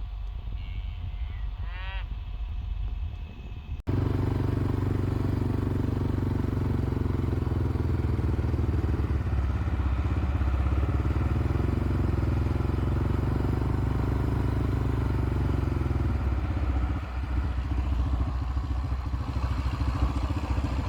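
A motor vehicle's engine running steadily, starting abruptly about four seconds in and shifting a little near the end. Before it comes a quieter stretch with a short chirp.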